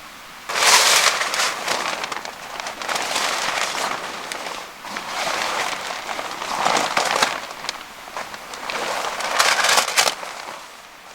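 Repeated spells of loud rustling and crunching, each lasting one to three seconds with short quieter gaps between.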